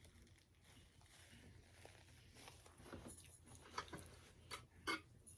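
Near silence with a low steady hum, then a few faint, short mouth clicks and crunches of someone eating in the second half, the loudest just before the end.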